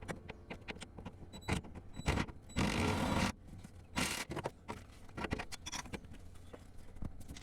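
Metal tools clinking and scraping against the rear shock absorber mounting during its removal: scattered clicks and knocks, with two short rasping bursts, a longer one under a second about two and a half seconds in and a brief one about a second later.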